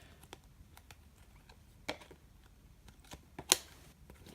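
Stiff, glossy chromium trading cards being handled and flipped through, with light scattered clicks and slides as they come apart and are set down, and a sharper snap about three and a half seconds in.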